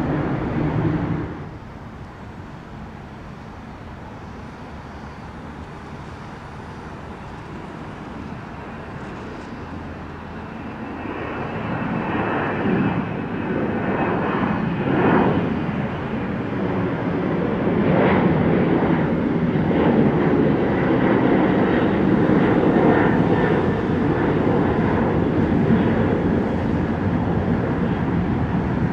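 Jet airliner departing: engine noise builds from about ten seconds in, with a faint high whine, and holds at a steady loud level through the second half. A louder noise dies away in the first two seconds.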